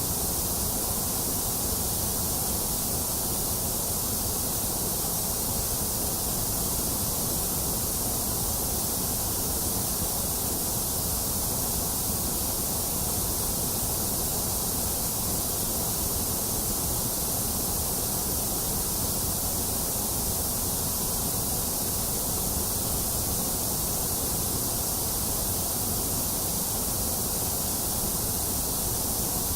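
Steady, unchanging synthetic white noise: a constant hiss on top with a rumble beneath.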